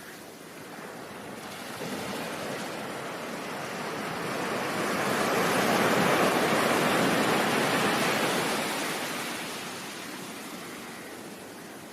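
Ocean surf: one slow wave of rushing noise that builds for several seconds, peaks midway, then washes back down.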